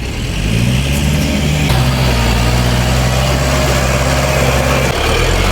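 Dump truck engine running, its pitch rising over the first second or two, then holding steady, with a change in the engine sound near the end.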